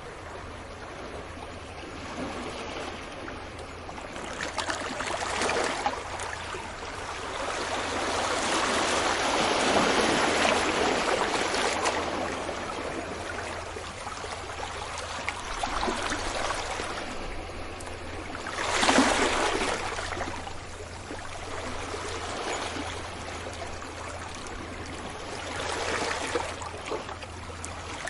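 Sea waves breaking on a beach, a steady wash that swells and falls back every several seconds, with the sharpest break about two-thirds of the way through.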